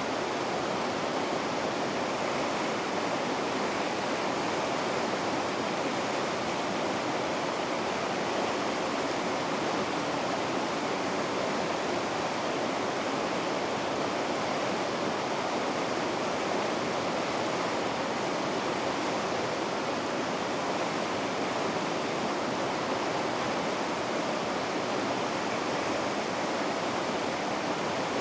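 River rapids rushing: a steady, unbroken wash of white water with no change in level.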